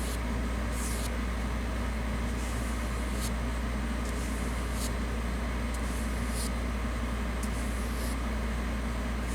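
Paintbrush strokes on a model's floor coated in finely textured paint: short, scratchy swishes about once a second, irregularly spaced, over a steady low hum.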